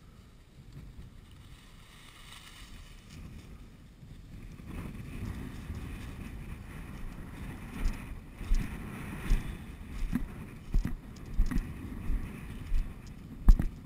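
A hunter's footsteps and brush rustling while walking through field cover, the thumps coming at a steady walking pace of about one every 0.7 seconds from about halfway through, with wind on the microphone.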